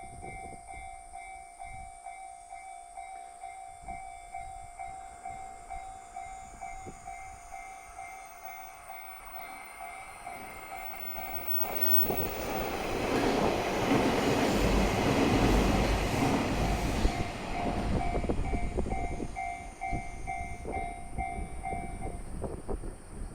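Japanese level-crossing warning bell ringing in a fast repeating pattern while a JR Kyushu local train passes over the crossing. The train comes in about 12 seconds in, is loudest around 14 to 17 seconds, then fades, and the bell stops shortly before the end.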